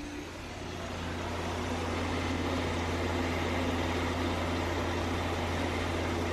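Steady mechanical hum of a motor-driven appliance, growing louder over the first couple of seconds and then running evenly.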